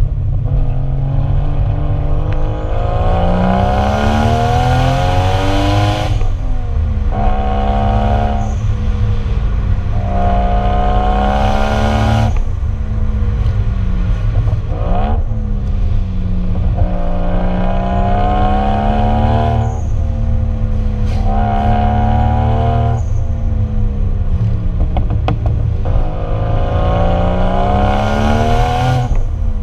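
1JZ inline-six in a Lexus IS300, running through a Vibrant exhaust and being driven hard. The engine note climbs in pitch for a few seconds, then drops sharply, again and again like gear changes, over a steady low exhaust rumble.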